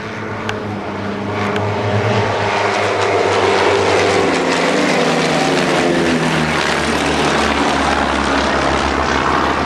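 A formation of propeller-driven light aircraft flying past, their piston engines growing louder over the first few seconds and then dropping in pitch as they go by.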